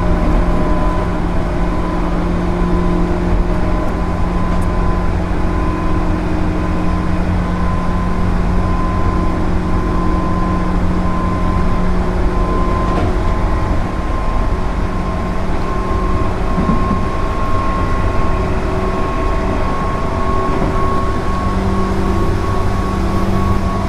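JR 205 series 0 electric train (field-added excitation control) running along the line: continuous wheel-and-track rumble with a steady hum and a motor whine that creeps slowly higher in pitch.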